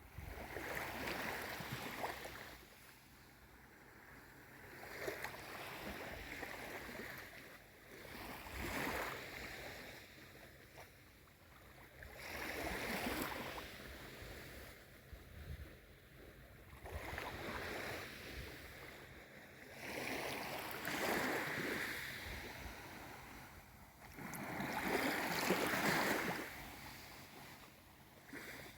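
Gentle sea waves on a calm sea, washing in and drawing back in soft swells about every four seconds.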